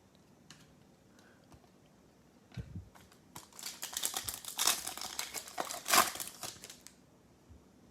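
Foil wrapper of a trading-card pack being crinkled and torn open, a dense crackling run from about three and a half seconds in to about seven, after a few faint taps.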